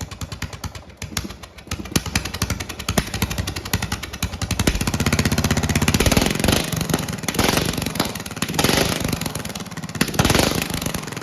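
Bolens mower engine running through a homemade exhaust with no muffler, a loud, rapid string of firing pulses. It gets louder about five seconds in and stays up, with a few dips.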